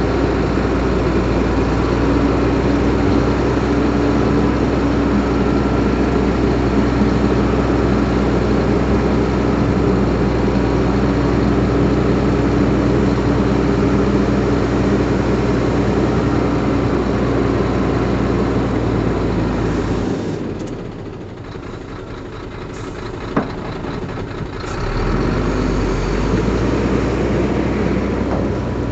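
Heavy diesel engine of earthmoving machinery running steadily. About two-thirds of the way through it drops quieter for a few seconds, with a single sharp knock, then picks back up.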